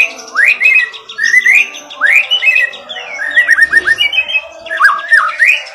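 White-rumped shama (murai batu) singing: a continuous run of loud, rising whistled notes, several a second, broken by short stuttering trills.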